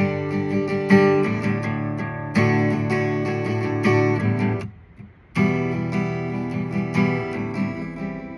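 Acoustic guitar strumming chords in a song's instrumental ending, breaking off for about half a second around five seconds in before the strumming resumes.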